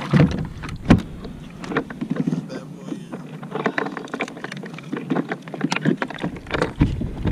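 Hollow plastic knocks and clunks of a kayak's drive being dropped into its well and the hull being handled. The knocks come irregularly, with a cluster of louder clunks near the end.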